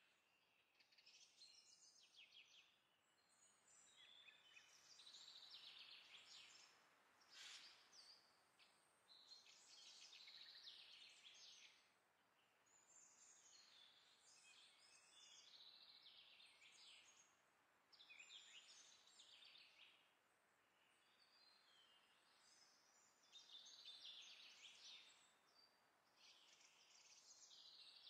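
Faint songbird song: short, high trilling phrases about a second long, repeated with brief pauses, over a quiet background hiss.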